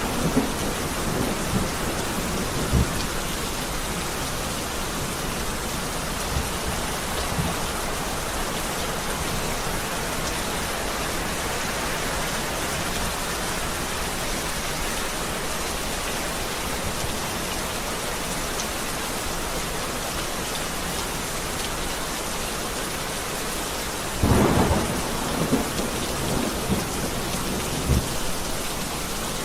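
Heavy rain falling steadily, with rolling thunder: rumbles in the first few seconds and a sharp crack with rumbling at about 24 seconds in.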